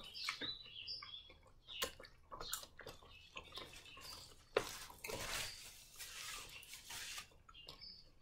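Crispy fried chicken being bitten and chewed close to the microphone: a run of sharp crackles and clicks from the breaded skin, busiest around the middle, with a few short squeaky mouth sounds near the start.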